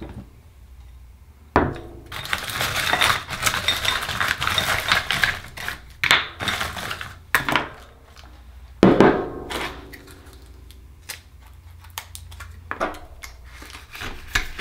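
Oysters being opened with a metal tool: scraping and clattering of shell against metal and dish in a long run, then a loud clink with a short ring about nine seconds in, followed by scattered small clicks.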